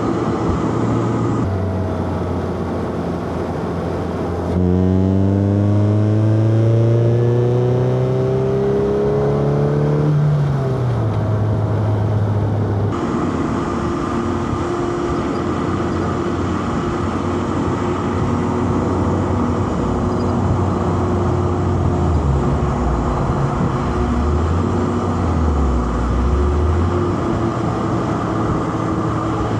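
Four-cylinder car engine over steady road and tyre noise. The revs climb steadily under acceleration from about five seconds in to ten, then drop away, and later dip and pick up again near the end.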